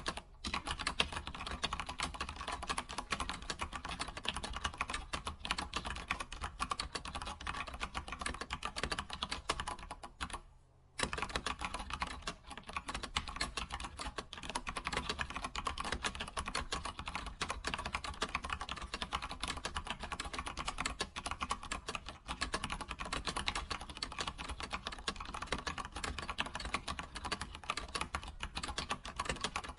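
Computer keyboard being typed on quickly and continuously, a dense run of key clicks, with a brief pause about ten seconds in.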